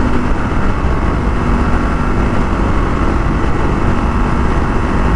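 1982 Honda XL500R's single-cylinder four-stroke engine running hard at a steady pitch while the bike is ridden at speed, under heavy wind rumble on the microphone.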